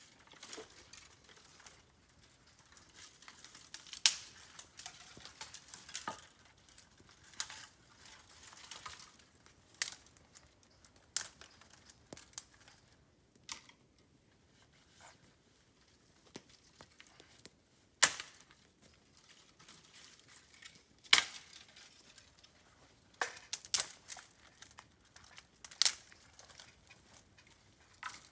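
Bamboo burning in a campfire: a faint, irregular crackle broken by sharp snaps and pops every few seconds, the loudest about four, eighteen and twenty-one seconds in.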